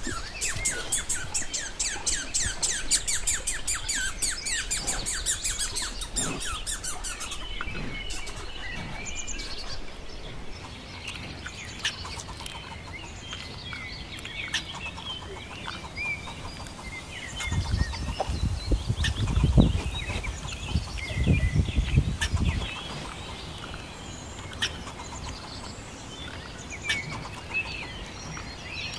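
Birds chirping outdoors: a fast run of sharp, evenly repeated chattering calls, several a second, for the first seven seconds, then scattered short chirps. A low rumble comes in around the middle for a few seconds.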